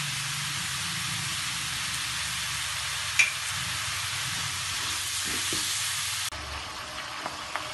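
Sliced button mushrooms sizzling in oil in a metal wok while being stirred with a wooden spatula, with a single sharp tap about three seconds in. A little after six seconds the sizzle drops off suddenly to a quieter level.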